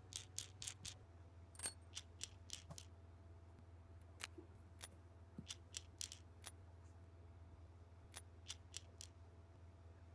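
A series of short, sharp clicks at irregular intervals, bunched in quick runs, over a low steady hum.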